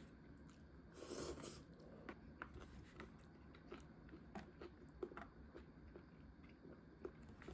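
Faint eating sounds from a bowl of salt ramen with wontons: chewing, with a short noisy burst about a second in and scattered soft clicks.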